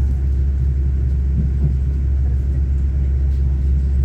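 Train running along the line: a steady low rumble that does not change in level.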